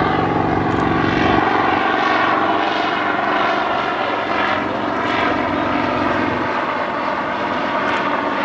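Sikorsky UH-34D helicopter in flight, its Wright R-1820 nine-cylinder radial piston engine running steadily under the rotor. The deepest part of the sound drops away about a second and a half in.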